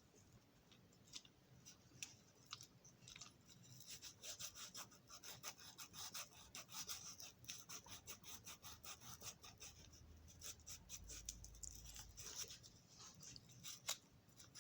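Sandpaper rubbing back and forth by hand on the metal wheels of a Marx Mo-Pac toy train switcher, in faint, quick, scratchy strokes, scouring the wheel rims and treads clean.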